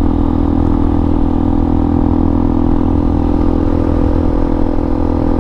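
Hawk 250 dual-sport motorcycle's single-cylinder engine running steadily at an even speed.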